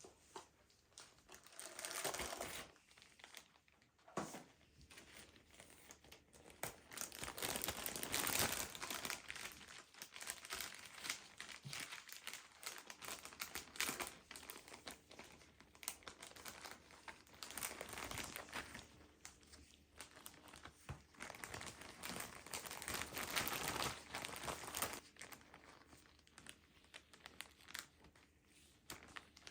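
Crinkly packaging being handled and crumpled, in irregular rustling bursts, loudest about eight seconds in.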